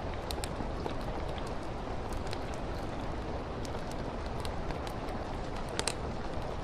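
Steady rain falling on window glass mixed with a crackling wood fire; scattered sharp pops from the fire, the loudest a little under six seconds in.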